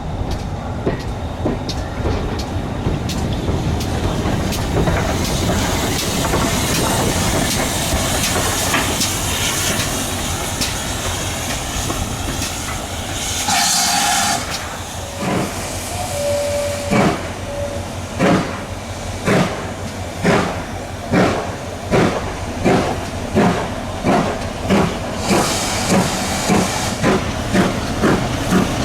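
Steam locomotive standing and hissing steam, with a brief louder blast about halfway through. It then starts away, its exhaust chuffing slowly at first and quickening steadily.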